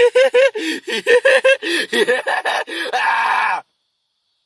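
A person laughing hard in quick rapid bursts, ending in a drawn-out "ah!" that cuts off suddenly.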